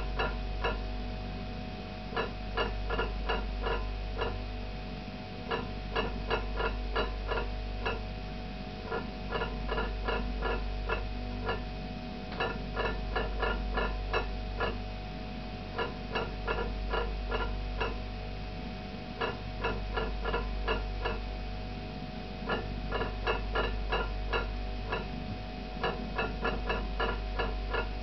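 Stacked ceramic plates rattling and clinking in quick bursts of a dozen or so ticks, one burst every three to four seconds, shaken by a deep pulsating hum that swells and fades in step with them. The vibration's source is unknown.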